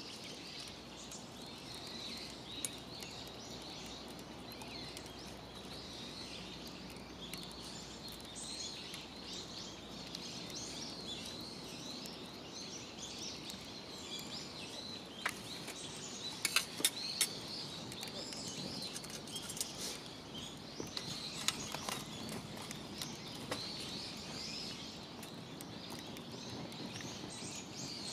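Many birds chirping and calling continuously over a low outdoor hiss, with a few sharp clicks a little past the middle.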